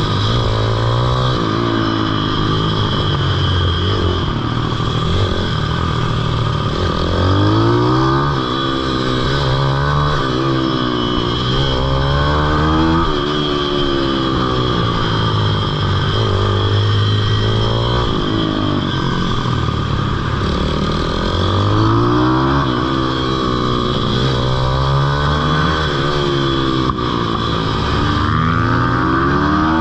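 Pitbike engine on a kart track, revving up and down over and over: the pitch climbs as the bike accelerates and shifts up, then falls away as it slows for corners.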